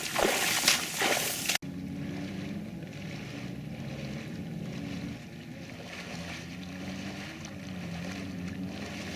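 Brief loud splashing in water that cuts off abruptly about a second and a half in. Then a steady low drone from a distant engine, its pitch wavering slowly.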